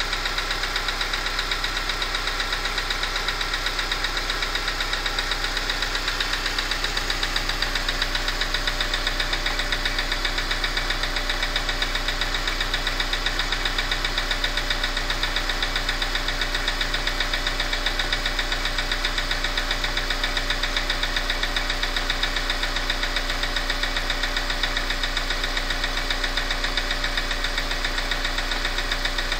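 Subaru EJ202 2.0-litre flat-four engine running steadily with a fast, even knock, which the owner traces to the number 4 cylinder.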